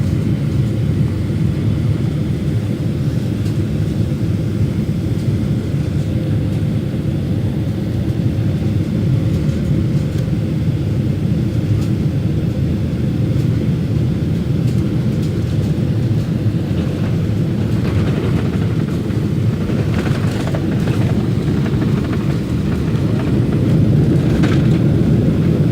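Steady low rumble of a Boeing 777-300ER's engines running, with a few faint clicks in the last third.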